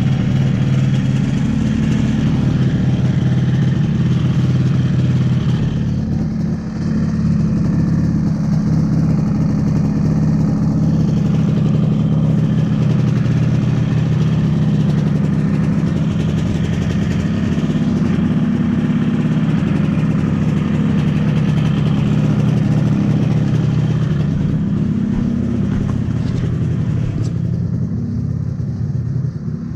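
Vintage two-stroke snowmobile engine running steadily at a fairly even speed.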